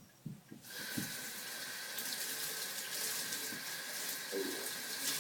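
Water running from a tap, coming on suddenly just under a second in and then a steady hiss, after a few soft low thumps.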